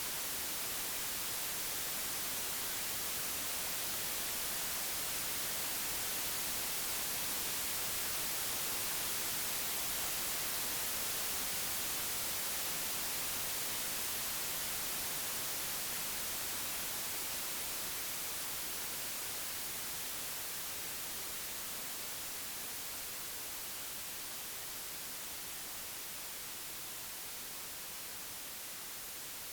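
Computer-generated white noise: a steady even hiss, brightest in the treble, swelling slightly and then easing gradually quieter over the second half.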